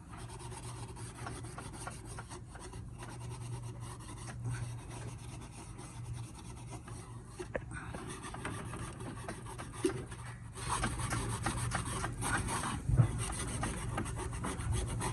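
Scrubbing and rubbing as the intake manifold's gasket mating surface is cleaned by hand, over a steady low hum. The scrubbing gets louder and busier about ten and a half seconds in, with one sharp knock a couple of seconds later.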